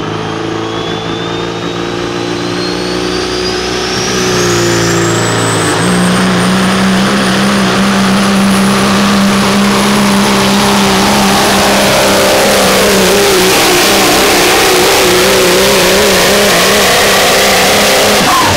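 Pro stock semi truck's diesel engine at full throttle during a sled pull, with a high turbo whistle that climbs steadily in pitch over the first several seconds. The engine gets louder about four seconds in and then holds.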